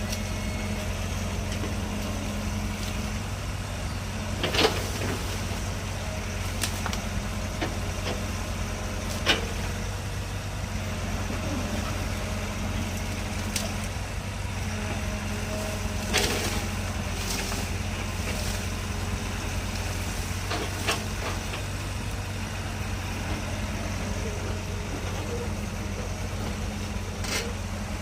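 Heavy vehicle's engine running steadily under load while pulling out a tree, with a few short sharp cracks or clanks spread through.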